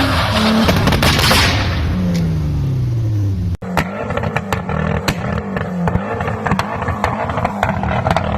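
A car engine revving down, its pitch falling for about three and a half seconds. After an abrupt cut, an engine running at a steady pitch with sharp exhaust pops and bangs, about one or two a second and unevenly spaced: backfire or anti-lag popping.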